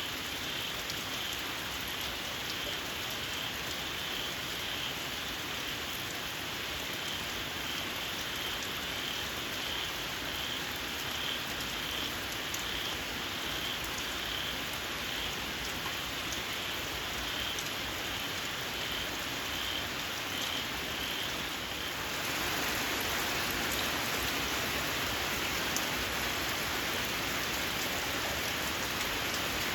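Steady rain falling, with a small frog giving a steady series of shrill, evenly spaced calls. About two-thirds of the way in the rain grows heavier and louder and the calls are no longer heard.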